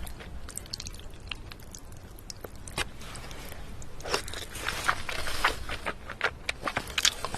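Close-miked chewing and biting of crunchy food, with crisp crackling crunches that come thicker in the second half.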